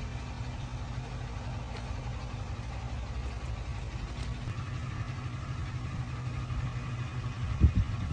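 A motor running steadily with a low, even hum. There are a few loud low thumps near the end.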